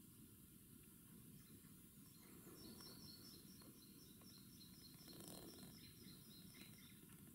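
Faint bird call in quiet bush: a quick series of evenly repeated high two-note chirps, about four a second, starting about two and a half seconds in and stopping near the end. A brief rustle comes just past five seconds in.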